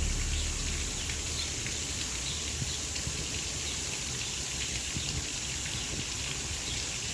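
Outdoor nature ambience: a steady high hiss of insects with scattered faint bird chirps over a low rumble.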